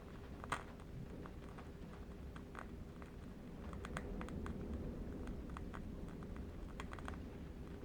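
Candle wick crackling in scattered, irregular faint clicks over a steady low rumble of distant wind, with the sharpest crackle about half a second in.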